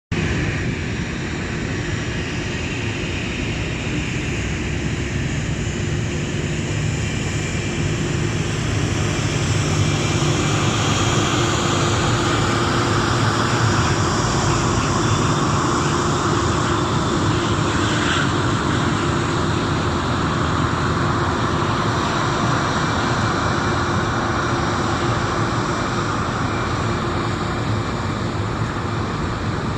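The four CFM56-5C turbofan engines of an Airbus A340-300 airliner running, a steady jet noise with a low hum under it. The noise swells a little about ten seconds in.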